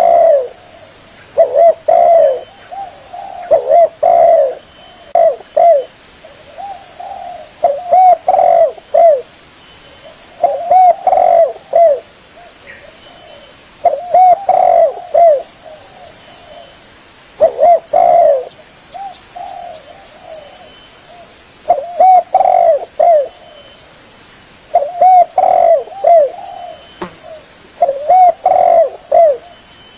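Spotted dove (tekukur) cooing. A short phrase of several coos repeats about every three to four seconds.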